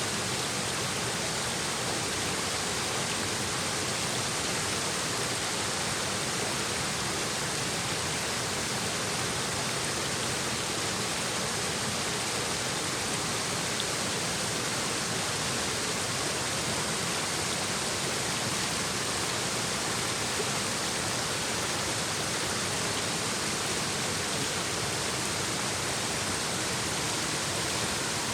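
A mountain stream babbling and rushing over rocks in a steady, continuous flow.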